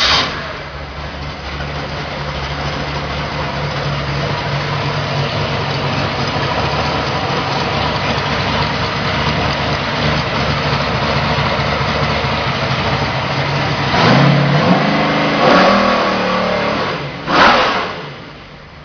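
1967 Mustang Eleanor coupe's freshly built crate engine just after catching, running at a steady idle, then blipped three times in quick revs near the end before dropping back.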